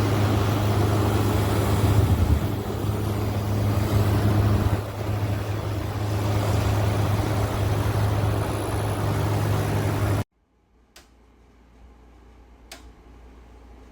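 hOmeLabs 5,000 BTU window air conditioner running close up: a steady rush of fan air over a low motor hum. It stops abruptly about ten seconds in, leaving quiet room tone with a few faint clicks.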